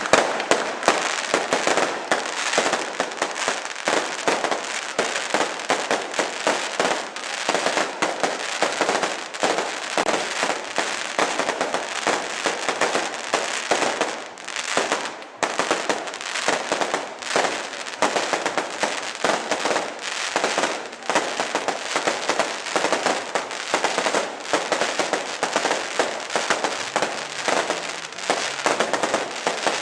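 Fireworks display: a dense, unbroken barrage of rapid sharp cracks and bangs, with a brief lull about halfway through.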